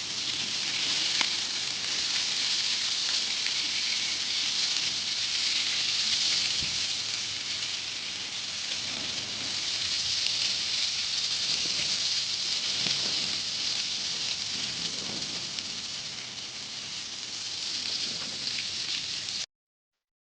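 Fish frying in hot oil over a wood fire: a steady, dense sizzle with a few sharp pops. The sizzle cuts off abruptly near the end.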